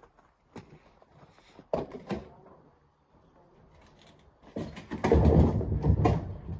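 Rocks being loaded into a dump truck's steel bed: a few single sharp knocks, then from about four and a half seconds in a loud clattering rumble of stones tumbling together.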